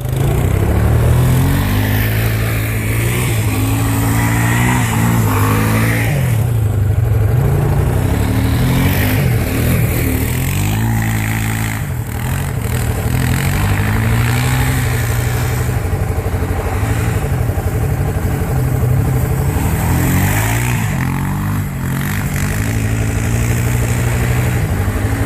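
Small vehicle engine revving up and falling back again and again, its pitch climbing and dropping every few seconds, under hard throttle while sliding around.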